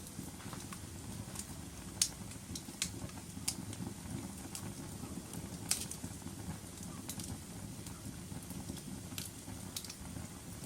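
Wood fire crackling: a steady low rumble of burning with sharp pops at irregular intervals, the loudest about two seconds in and again near six seconds.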